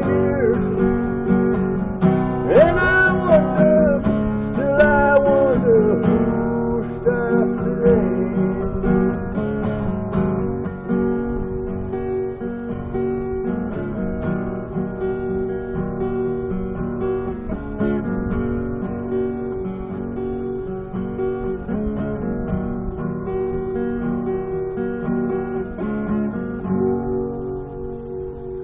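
Acoustic guitar strummed in steady chords, with a sung voice wavering over the first several seconds. The strumming then carries on alone, slowly getting quieter, and dies away near the end.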